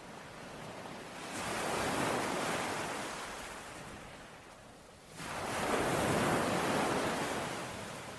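Sea waves breaking and washing up a shore, two in a row: the first swells up a little over a second in and fades away, the second comes in sharply about five seconds in and slowly fades.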